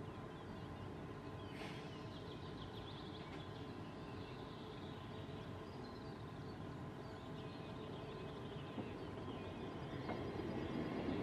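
Birds chirping over a low steady hum from an SBB regional electric train standing near the crossing. The train's rumble builds near the end as it starts to roll.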